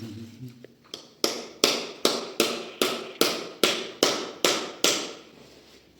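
A hammer striking something hard ten times in a steady rhythm, about two and a half blows a second, starting just over a second in.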